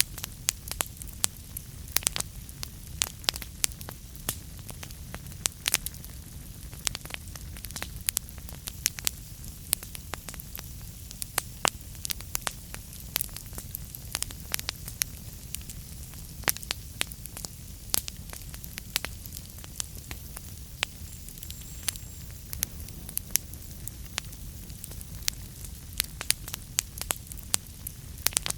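Wood fire burning in a fireplace: irregular sharp pops and crackles, several a second, over a steady low rumble of the flames.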